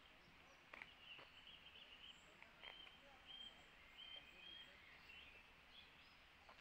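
Faint birdsong in a quiet wood: a run of short, high chirps and notes for a few seconds, fading out before the end.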